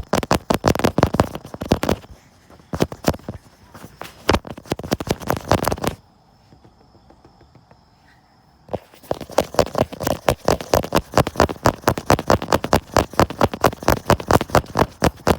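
Rapid tapping directly on the iPhone recording it, close to its microphone, several sharp taps a second, stopping briefly about two seconds in and for about three seconds in the middle before starting again.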